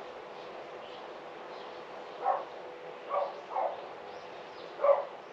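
A dog barking four short times, irregularly spaced, over a steady background hiss with faint high bird chirps.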